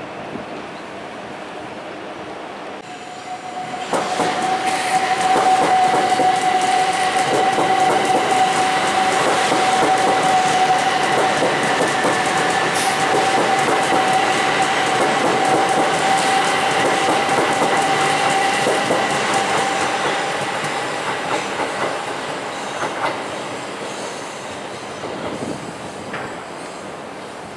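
Thameslink electric multiple-unit train running past close by, its wheels clacking over the rail joints with a steady high whine. It swells quickly about four seconds in and fades away over the last several seconds.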